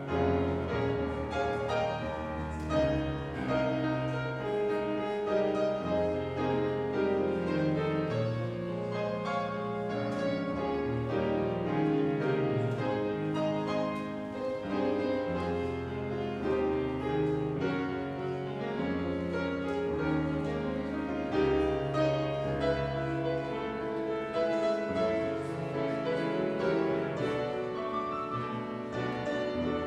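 Classical-style piano music: a continuous instrumental piece of held chords over a moving bass line.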